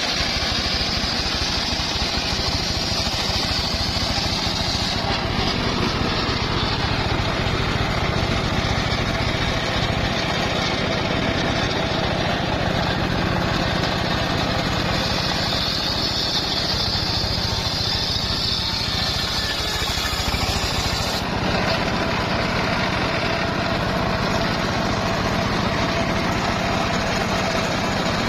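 Engine-driven circular sawmill running steadily, with a high whine that comes and goes, strong at the start, again for about six seconds in the middle, and again at the end, as the blade cuts through a log.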